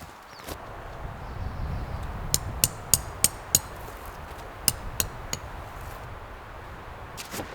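A quick run of sharp, ringing metallic clinks from camp-setup gear, then a few more a second or so later, over a low rumble.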